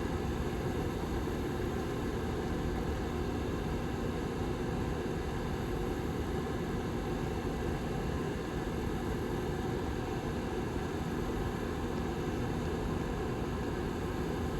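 Lasko 755320 tower heater's rear fan running steadily: an even, low whooshing airflow with a faint constant hum.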